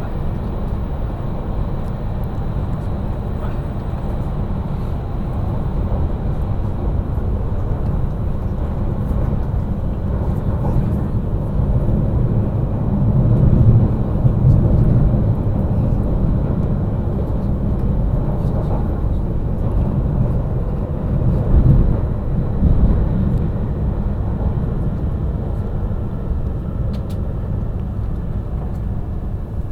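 E5 series Shinkansen heard from inside the passenger cabin: a steady low rumble of the train running on the line. It swells twice, a little before halfway and again about three quarters through.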